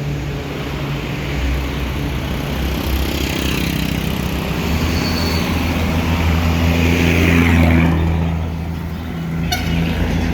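Heavy truck's diesel engine running as it drives past, with road noise building to a peak about eight seconds in, then fading. A short run of clicks comes near the end.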